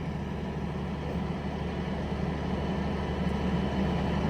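Bucket truck's engine running steadily, slowly getting a little louder, as the boom lifts the bucket.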